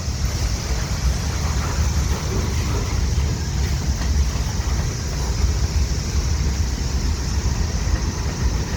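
Long freight train rolling past at close range: a steady rumble of cars on the rails, with wind buffeting the microphone.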